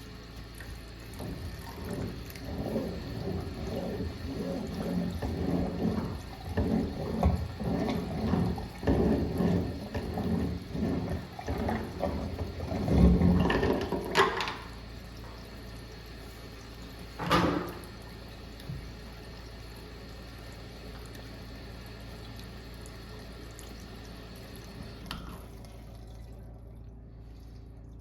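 Water gurgling and splashing in irregular surges as a kitchen drain pipe is flushed with a high-pressure washer, over a steady low hum. The surges stop about halfway through, with one more a few seconds later.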